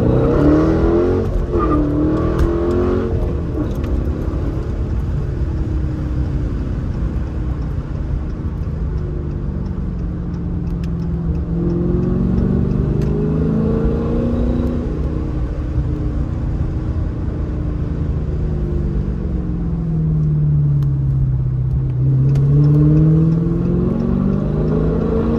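Dodge Challenger 392's HEMI V8 through a Dynomax aftermarket exhaust, heard from inside the cabin while driving. The engine revs up sharply at the start, then its pitch rises and falls as the car accelerates and eases off, sinking low about three-quarters of the way through before climbing again near the end.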